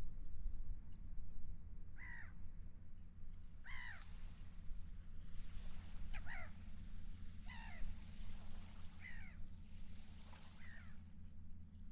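Gulls calling, about six harsh calls spaced a second or two apart, over a steady low rumble.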